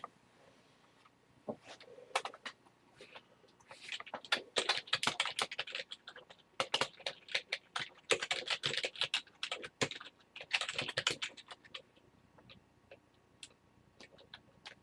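Typing on a computer keyboard: quick runs of keystrokes with short pauses between them, thinning to scattered taps near the end.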